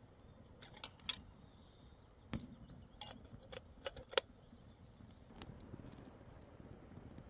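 A series of sharp metal and glass-like clinks and knocks, about eight in all over three seconds, some ringing briefly: camp cookware and utensils being handled.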